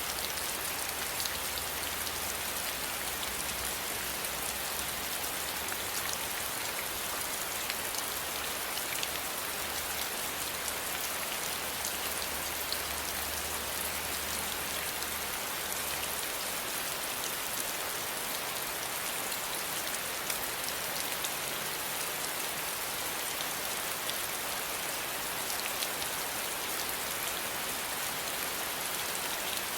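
Steady rain falling, a constant hiss with many individual drops ticking on a surface. A faint low rumble underneath fades out about halfway through.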